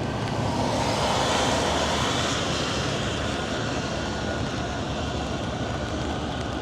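Traffic on a wet street: a steady hiss and rumble of passing vehicles that swells as one goes by about a second in, then eases back.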